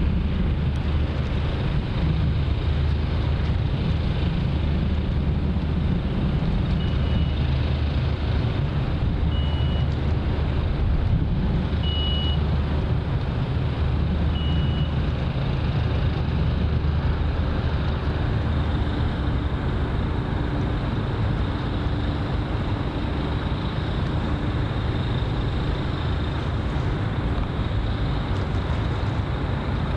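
Steady low engine rumble, with four short high beeps about two and a half seconds apart in the first half.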